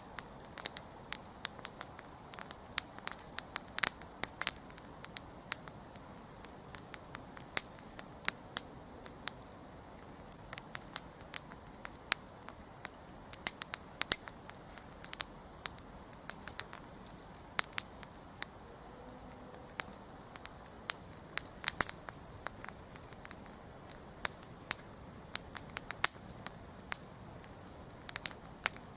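Wood campfire burning with irregular sharp crackles and pops over a soft hiss of flames.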